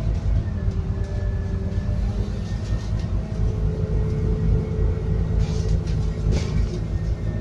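Interior sound of a Scania N280UD biogas double-decker bus under way: a steady low engine drone with a faint whine above it. A couple of short rattles come about five and a half and six seconds in.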